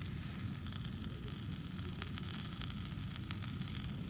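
Limpets cooking in butter in a hot pan: a steady sizzle with small crackles now and then.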